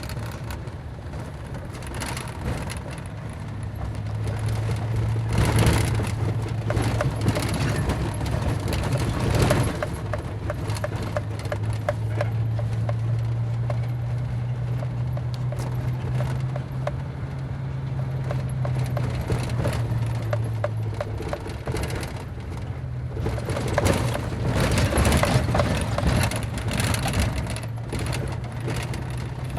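A vehicle driving on a rough road: its engine hums steadily, with slight shifts in pitch, under continuous rattling and knocking. The rattling gets louder in stretches, about six and nine seconds in and again for a few seconds near the end.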